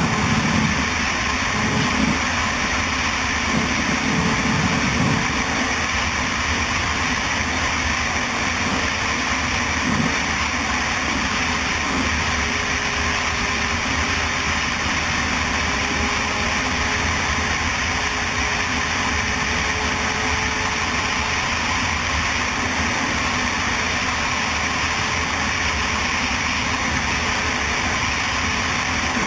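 Motorcycle engine running steadily under a constant rushing noise.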